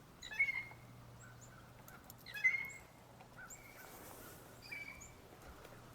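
Wild birds giving short call notes, three clearer ones about two seconds apart, over a faint low hum.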